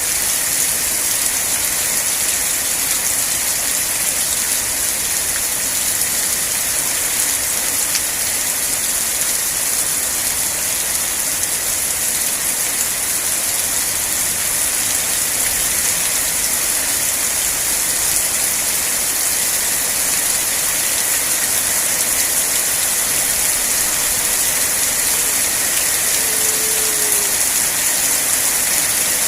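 Steady rain falling, an even unbroken hiss that holds the same level throughout.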